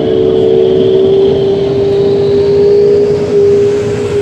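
Airbus A380's jet engines at take-off power: a loud, steady roar with a strong droning hum and a faint rising whine above it.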